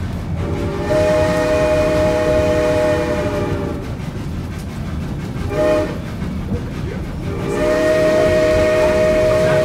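Steam whistle of 1926 Baldwin 2-8-0 narrow-gauge locomotive #111 sounding a long blast, a short blast and another long blast, over the steady low rumble of the moving train.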